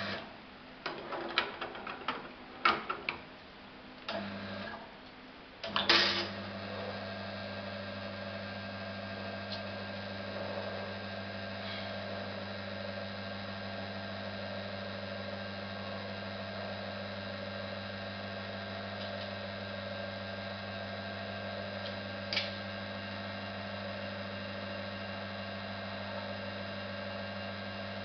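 Coffee machine being operated: a few clicks and knocks, then about six seconds in it starts with a sudden onset and runs with a steady electric hum and hiss. A single click sounds near the end.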